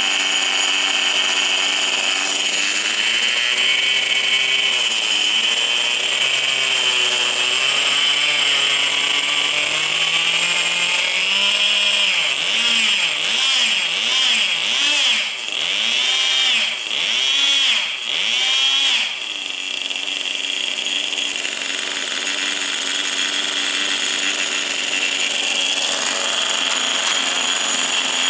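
Small nitro glow engine of a Tamiya TGS 1/10 RC car running with a high buzz. Between about 12 and 19 seconds in, its pitch rises and falls about seven times as the throttle is blipped, then it settles back to a steady run.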